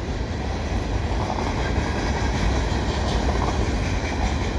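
Two freight trains passing each other, tank cars rolling by on the rails: a steady low rumble of steel wheels on track with faint repeated clacks.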